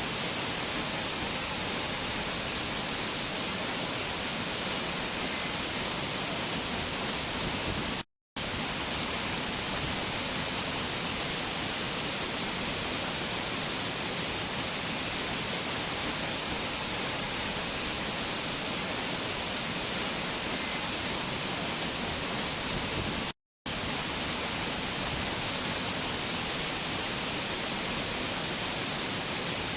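Waterfall rushing steadily, an even dense hiss of falling water. It cuts out to silence for a split second twice, about eight seconds in and again about twenty-three seconds in.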